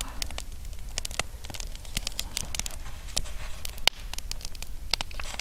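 Burning firewood crackling, with irregular sharp snaps and pops.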